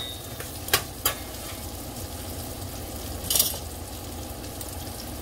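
Onion pieces sizzling as they fry in oil in a stainless steel pot, a metal spoon stirring and clinking twice against the pot within the first second or so. A brief louder burst comes about three and a half seconds in.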